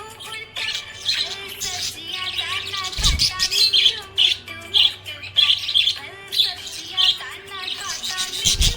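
Budgerigar chirping, a quick run of short high chirps, with a low thump about three seconds in and again near the end.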